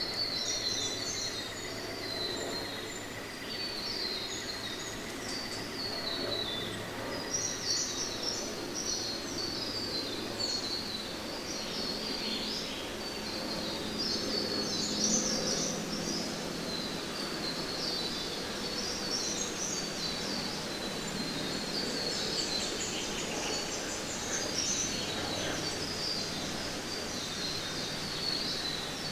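Rainforest ambience: many birds chirping continually, over a steady background hiss.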